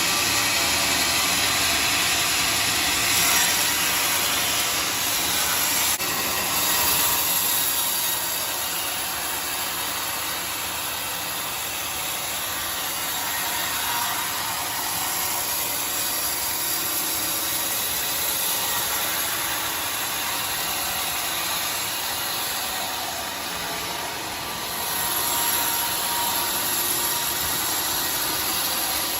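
Bandsaw mill running steadily, a continuous mechanical din with a bright hiss.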